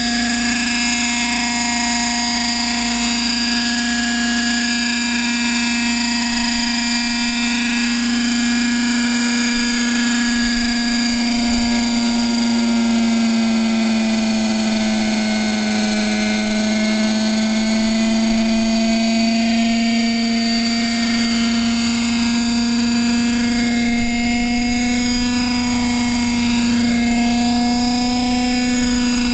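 Radio-controlled model helicopter running steadily with a constant motor-and-rotor hum; the pitch sags a little midway, then rises back again.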